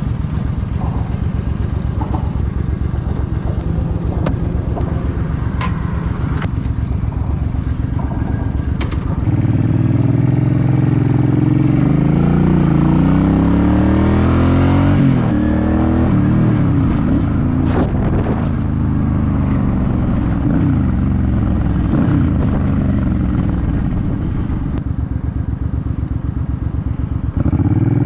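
2006 Suzuki C50's V-twin engine, running slowly and evenly at first, then getting louder about nine seconds in as it accelerates, its pitch rising and dropping through gear changes. It settles to a steadier run before picking up again near the end.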